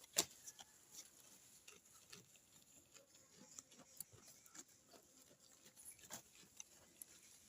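Faint, irregular crunching and clicking of a Pelibuey sheep eating its feed, with one sharper click near the start.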